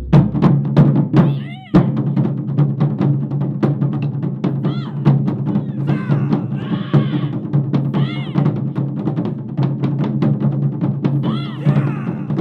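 Japanese taiko drum ensemble playing a fast, dense rhythm on deep-ringing drums, with short shouted calls from the drummers breaking in several times.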